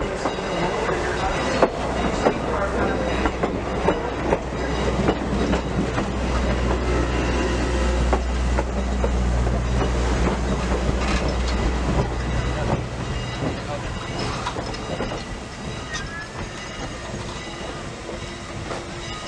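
Steam-hauled train running on the rails, its wheels clicking over the rail joints with a steady low rumble underneath; the sound eases off after about thirteen seconds.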